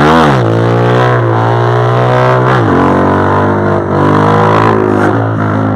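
Small motorcycle engine revving hard, with wind noise on the microphone. The revs jump up at the start and hold high for about two seconds, then drop and climb again twice, as the throttle is worked to hold the front wheel up in a wheelie.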